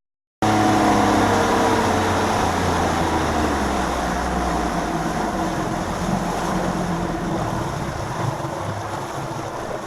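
Bass boat's outboard motor running under way, with rushing wind and water noise; the engine note drops over the first few seconds and the sound slowly eases as the boat slows.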